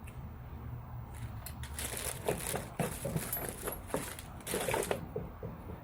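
Rustling and irregular clicking of plastic plumbing parts and packaging being handled and rummaged through, busiest in the middle few seconds, over a low steady hum.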